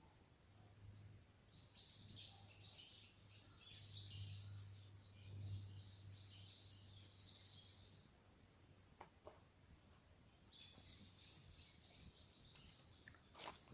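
A bird singing faintly in two runs of rapid, high chirping notes, one about two seconds in and one about eleven seconds in, with a few faint crackles from the campfire.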